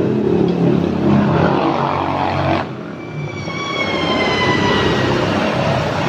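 Suzuki Carry Futura engine running through a newly fitted aftermarket header and wrapped muffler, giving a loud, deep exhaust note. About two and a half seconds in the sound drops suddenly, and a high whine follows that slowly falls in pitch.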